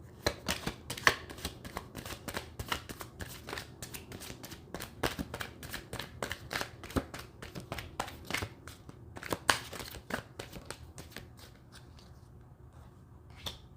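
A tarot deck being shuffled by hand: a long run of quick card slaps and flicks that stops about twelve seconds in.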